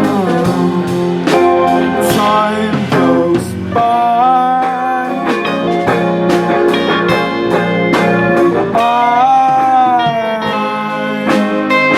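A live rock band playing an instrumental passage: a lead melody of held notes that bend and slide, most likely an electric guitar, over a steady drum beat and bass.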